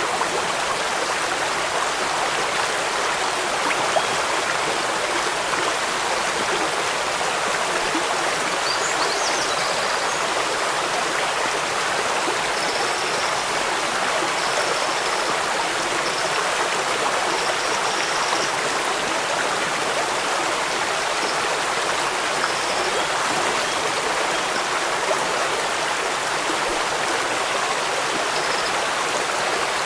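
Steady, even rush of running water from a stream.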